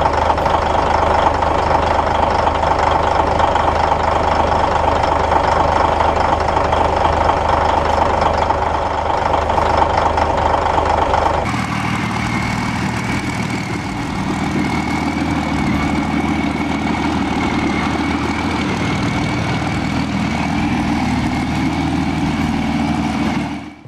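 Diesel engine of a Caterpillar D9G crawler tractor running steadily after a cold start. About halfway through the sound changes abruptly to a lower, deeper running note with a steady high whine over it.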